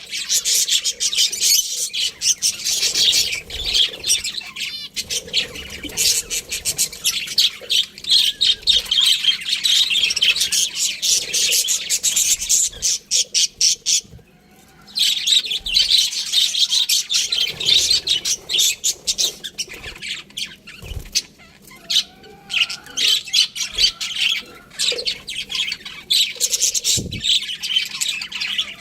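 Budgerigars chirping and chattering in a fast, continuous stream of high twittering and squawks, with a brief pause about halfway through.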